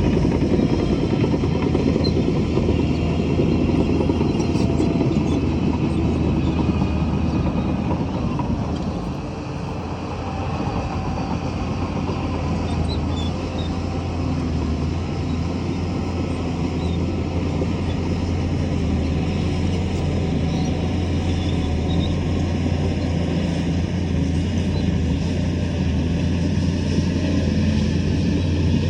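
Shantui bulldozer's diesel engine running steadily as the machine works, with a brief dip in level about a third of the way through.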